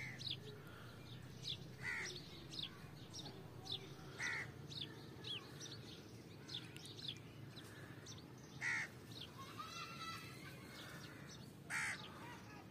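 Birds chirping, faint, with many short downward-sweeping calls, and a louder, rougher bird call four times: about two seconds in, about four seconds in, near nine seconds and near twelve seconds.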